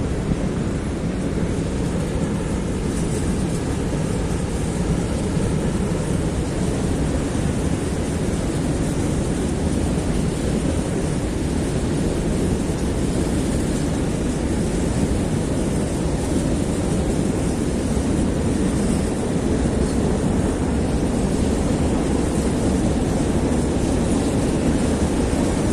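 A train passing close by, making a steady, loud rumble that does not rise or fall.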